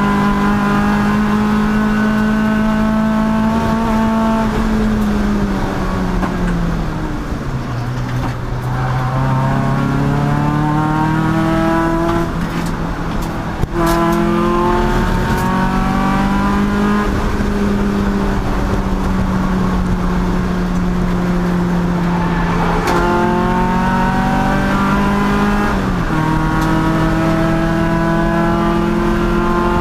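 Endurance race car's engine running hard on track. Its pitch falls as the car slows for a corner about six seconds in, then climbs again under acceleration, with gear changes at about thirteen and twenty-six seconds.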